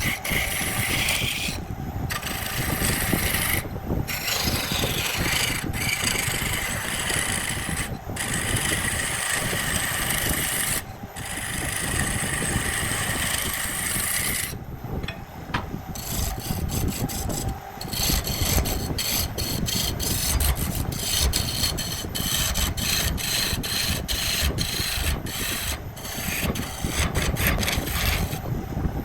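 Wood lathe turning a workpiece while a tool scrapes against the spinning wood, a continuous rasping rub.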